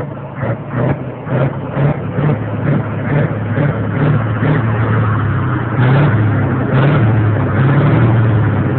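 Scania 144's 14-litre V8 diesel engine running at steady revs, a deep even note that grows louder over the last few seconds.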